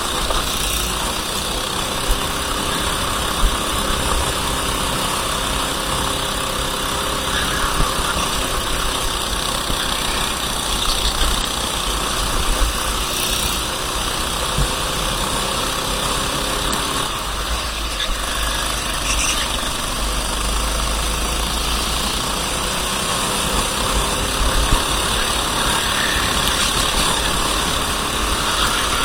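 Racing kart engine running continuously at speed, its pitch slowly rising and falling as the revs change, over a deep steady rumble.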